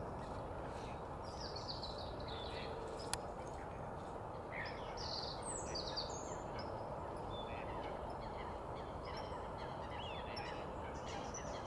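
Scattered bird calls, some short and falling in pitch, over a steady low rush of background noise, with a single sharp click about three seconds in.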